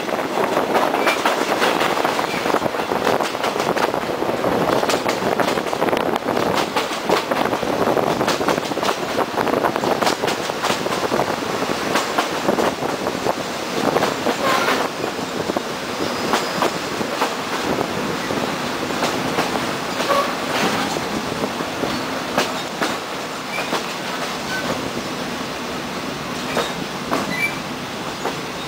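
Passenger train running on jointed track: steady wheel-and-rail noise with a rapid clatter over the rail joints and a few brief squeals from the wheels, easing slightly in the second half.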